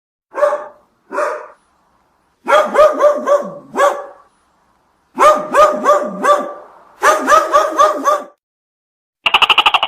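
A dog barking: two single barks, then three runs of four or five quick barks. A different rapid, buzzing pulse of calls starts near the end.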